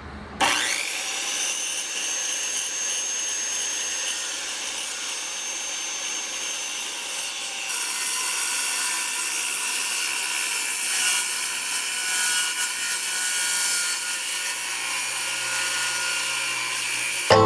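Circular saw starting up and cutting through a length of wood board, a steady high whine with the rasp of the blade in the wood. It gets louder and harsher about halfway through.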